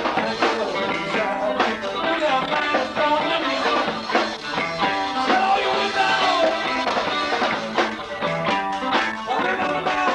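Live band of guitar, bass guitar and drums playing a song together, with a steady drum beat under moving guitar lines.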